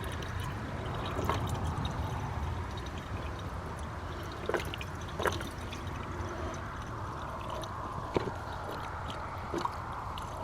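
Green antifreeze pouring into a truck's coolant overflow tank, a steady trickle with a few brief clicks. The tank is being topped up because the cooling system is low on coolant.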